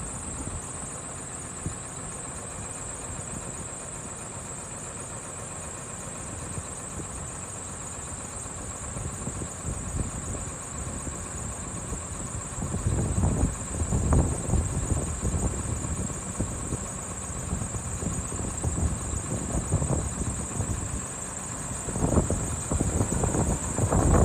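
Howo 371 hp six-cylinder diesel dump truck engine running at a steady idle; from about halfway, louder uneven low rumbling comes in.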